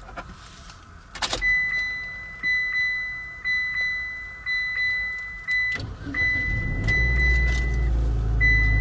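2015 Mitsubishi ASX's 1.8-litre MIVEC inline-four being started: a click from the ignition, a dashboard warning chime pulsing about once a second, then the engine cranks and catches a little under six seconds in and settles into a steady fast cold-start idle near 2000 rpm, with the chime still sounding.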